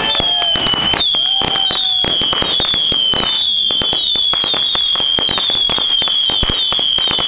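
Consumer fireworks going off: a dense, rapid crackle of small pops with a high whistle that repeatedly dips in pitch and recovers.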